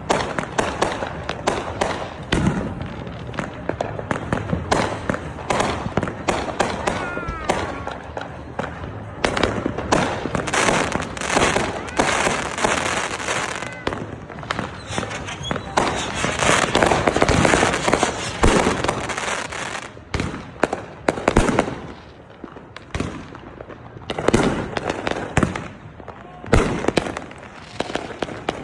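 Fireworks going off all around in a dense, continuous barrage of overlapping bangs and crackles. In the last third it thins to separate loud bangs a second or two apart.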